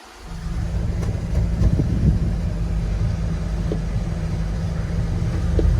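A 1987 Chevrolet R10 pickup driving, heard from inside the cab: the engine and road noise make a steady low rumble that comes in just after the start and grows a little louder near the end.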